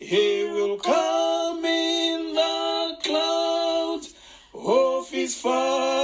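A hymn sung by male and female voices, with long held notes and a short break about four seconds in.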